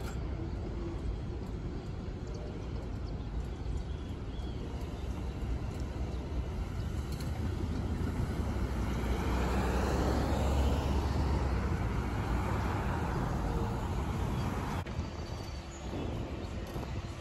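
NJ Transit train passing: a steady rumble that swells to its loudest a little past the middle, then eases off.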